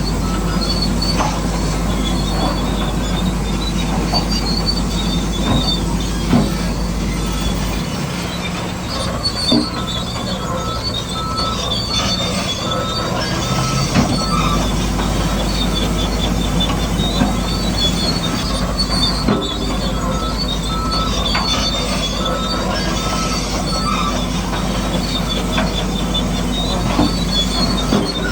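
Electric motors and gearboxes of radio-controlled model construction machines running with a steady high-pitched whine, with a few sharp knocks of rock or machine parts.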